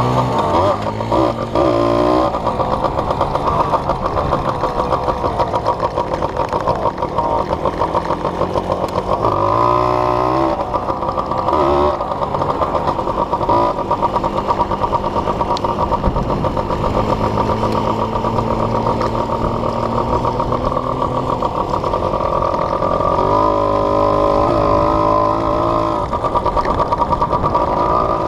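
Small off-road engine running under way, its pitch rising and falling as the throttle is opened and eased several times, with the clearest climbs about a second in, around nine to ten seconds, and again near the end.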